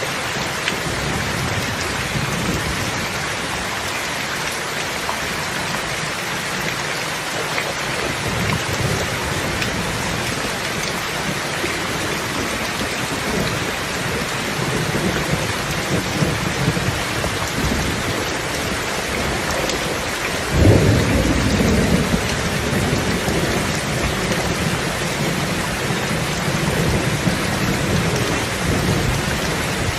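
Steady rain falling, with thunder rumbling low underneath. A sudden loud thunderclap comes about two-thirds of the way in, then rolls off.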